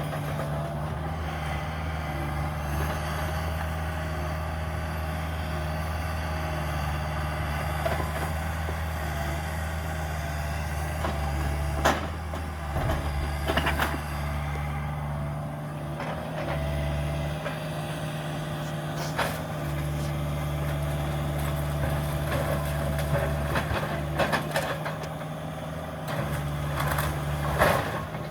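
Cat 305 mini excavator's diesel engine running steadily, with scattered sharp knocks and cracks of demolition debris, the loudest about twelve seconds in and again near the end.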